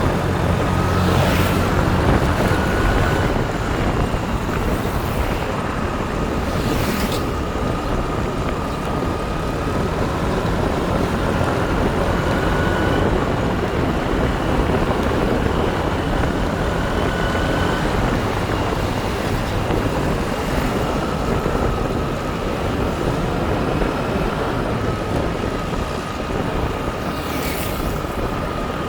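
Motorbike running steadily on the road, with a thin whine that rises and falls slightly over the road and wind noise.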